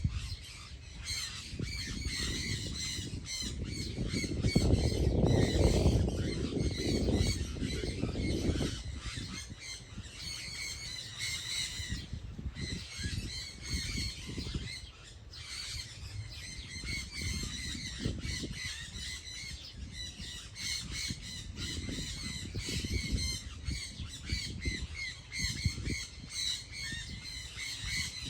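Many birds calling at once: a dense stream of short, high calls with no break. A low rumbling noise comes and goes underneath, loudest a few seconds in.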